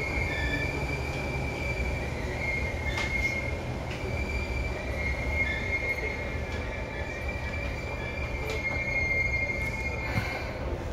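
Seibu 2000 series electric train running, heard from inside the car above its line breaker: a steady low rumble with a steady high-pitched whine that stops about ten seconds in.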